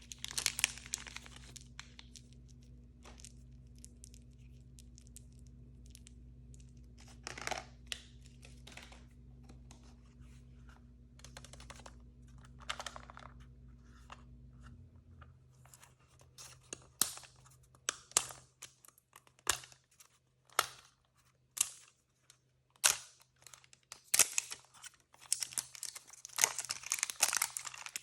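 Plastic packaging of blind-bag toys being handled and torn open: scattered crinkles at first, then a run of sharp clicks and snaps from about halfway, and dense crinkling and tearing near the end.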